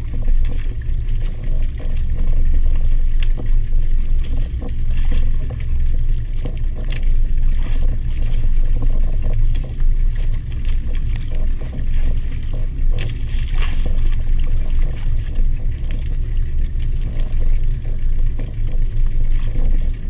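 Steady low rumble and water noise aboard a small fishing boat at sea, with scattered sharp taps and splashes.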